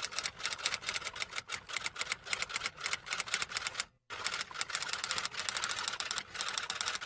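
Rapid, uneven mechanical clicking, about eight to ten clicks a second, like keys being typed. It breaks off briefly about four seconds in, then resumes.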